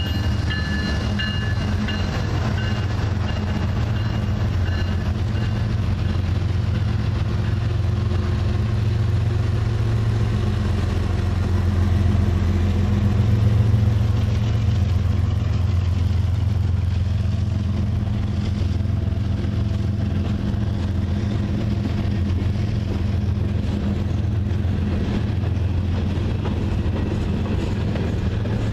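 Union Pacific manifest freight train rolling past close by: the trailing GE C45AH diesel locomotives go by in the first seconds, with a few thin high tones, then a long string of freight cars passes with a steady low rumble of wheels on rail, a little louder about halfway through.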